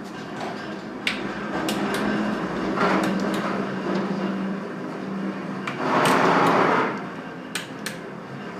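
Shoe cabinet parts being handled and fitted together: several sharp knocks and clicks, and a louder scrape lasting about a second, six seconds in. A steady low hum runs underneath.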